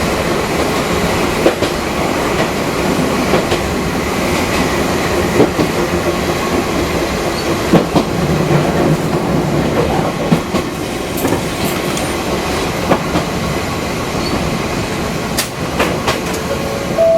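Fukui Railway 200 series electric train running along the line: a steady rumble of wheels and motors, with scattered clicks of the wheels passing over rail joints.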